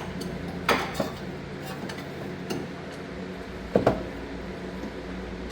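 Ratchet and socket clinking on the engine's crankshaft bolt as the engine is tried for turning over by hand: a few sharp metallic clanks, about a second in and again near four seconds, over a steady low hum.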